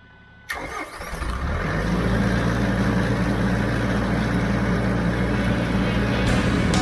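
TYM T574 compact tractor's diesel engine running, swelling over the first couple of seconds and then holding a steady hum.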